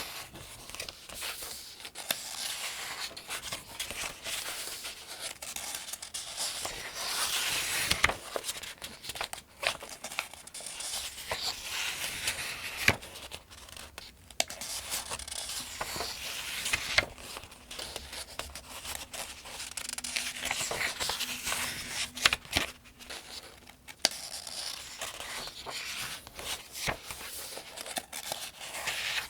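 Pages of a Farmers' Almanac being turned by hand, one after another at a steady pace. Each turn makes a rustle and crinkle of thin paper, with sharp little snaps as a page flips over and settles.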